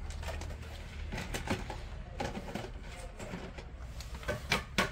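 Irregular clicks and knocks from handling a laptop's parts and tools during disassembly, the sharpest pair near the end.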